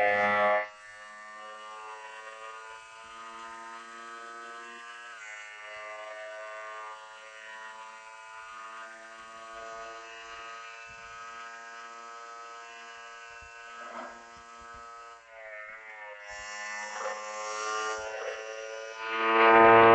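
Motorcycle engine running at a steady speed with a buzzing note that dips slightly in pitch twice; the buzz is much louder briefly at the start and again near the end.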